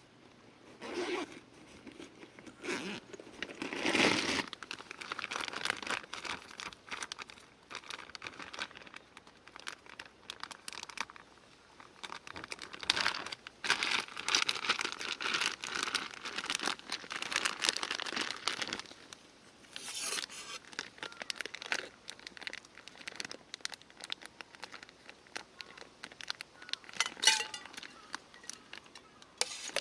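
Irregular crinkling and rustling of material being handled, with many scattered small clicks and a few louder rustles, about 4 seconds in and near the end.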